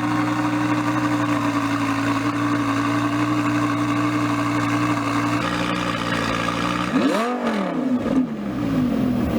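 Car engine idling steadily through its exhaust, with one quick throttle rev about seven seconds in that rises and falls in pitch before it settles back to idle.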